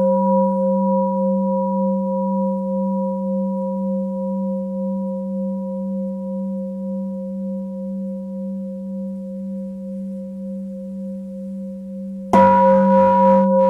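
Tibetan singing bowl ringing on after a strike, several steady tones slowly fading with a gentle wavering beat. It is struck again about twelve seconds in.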